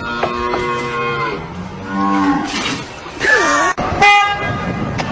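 An animal giving several long, drawn-out low calls, one after another, with a short break about three-quarters of the way through.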